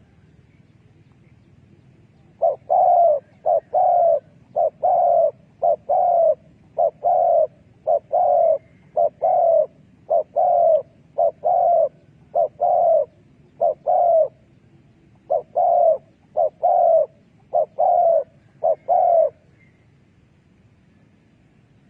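Spotted dove cooing: a long run of coo phrases, short notes alternating with longer ones, starting a couple of seconds in and stopping a few seconds before the end.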